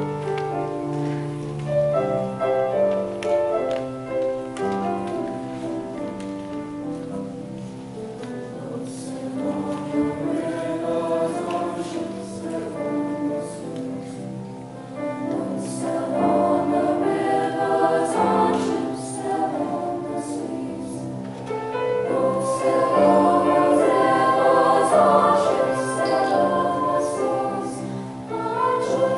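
Junior high school choir singing in parts, with sustained notes; the singing swells louder about three quarters of the way through.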